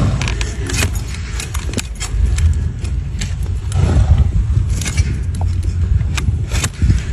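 Hoof trimming on a donkey: a series of short, sharp scrapes and clicks at an irregular pace, over a steady low rumble.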